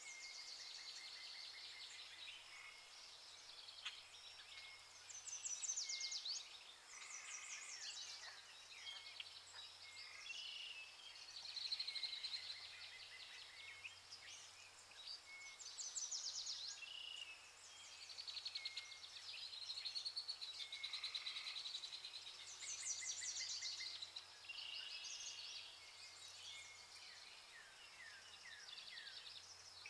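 Several birds singing and chirping at once, with quick high trills and repeated short notes, over a faint steady background hiss.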